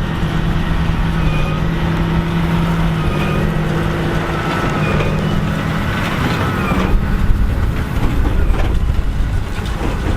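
John Deere 8530 tractor's six-cylinder diesel running steadily under load while pulling a Massey Ferguson 2190 large square baler, the baler's machinery working along with it. A short squeak recurs about every two seconds.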